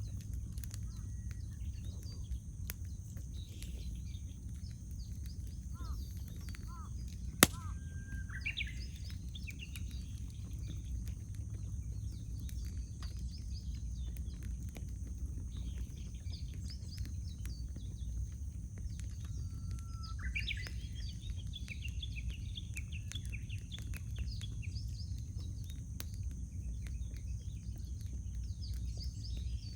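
Wood campfire crackling with scattered small pops and one loud sharp pop about seven seconds in, over a steady low rumble. Birds sing twice, once near the pop and again a little later.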